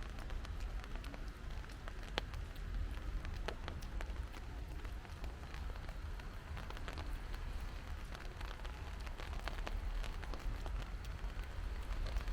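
Rain falling, with many separate drops ticking on nearby hard surfaces over a steady low rumble.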